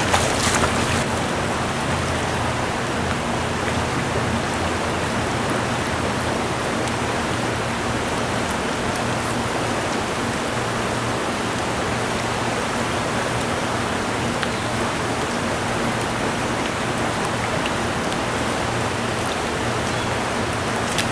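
River water rushing steadily through a run, an even unbroken noise close to the microphone.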